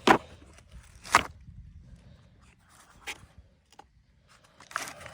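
Hand tools being sorted in a toolbox: a few separate sharp clicks and knocks, the loudest right at the start and about a second in, with rummaging and rustling near the end.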